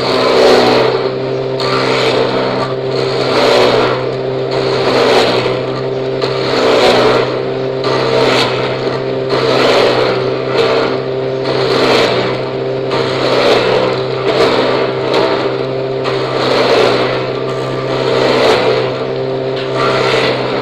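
Electric wood planer machine with a side-mounted drill attachment running, a steady motor hum under a rasping noise that swells and fades about every second and a half.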